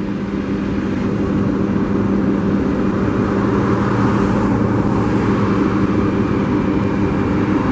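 Big truck's engine running close by with road noise: a loud, steady drone.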